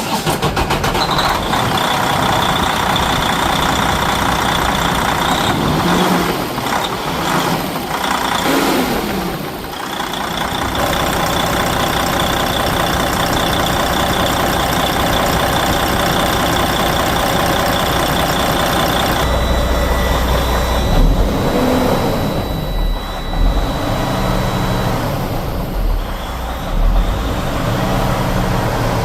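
Detroit Diesel DD15 inline-six diesel engine in a Freightliner daycab running steadily, with a few rises and falls in pitch about a quarter of the way in.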